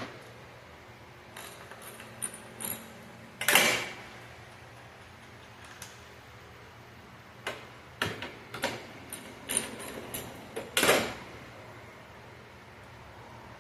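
Hand tools and metal and plastic parts clicking and knocking while 10 mm fasteners are undone on a car's radiator fan assembly. The knocks come in two irregular clusters, each with one louder, half-second clatter.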